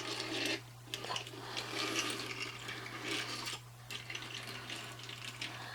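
A plastic toy airliner and die-cast tow tractor being handled and pushed about, giving irregular rubbing and scraping in several short stretches.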